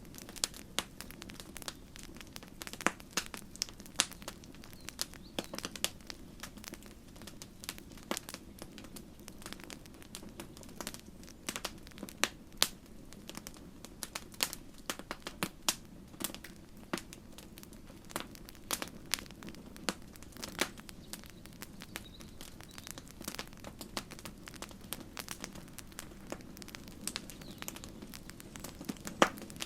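Wood campfire crackling, with irregular sharp snaps and pops over a low, steady rumble of the flames.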